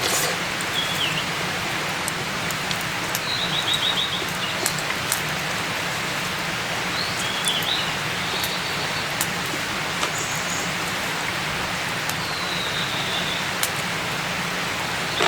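Steady hiss like rain falling, with a small bird chirping and trilling a few times over it and scattered sharp ticks.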